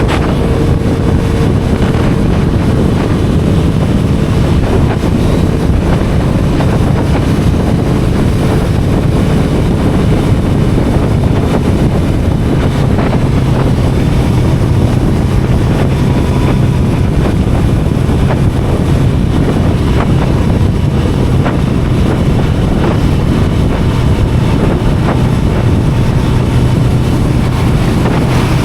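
Sport motorcycle engine running at a steady cruise, its note holding even, under loud wind noise on the microphone.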